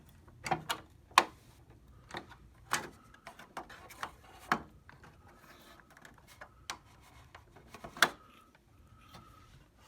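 Irregular clicks and knocks of the plastic housing of an HP 3330 printer-scanner being handled and pried at its clips, the sharpest about a second in and another near eight seconds.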